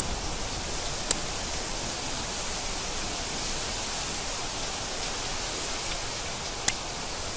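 Steady rain falling, an even hiss, with two sharp ticks of drops striking a hard surface, about a second in and again near the end.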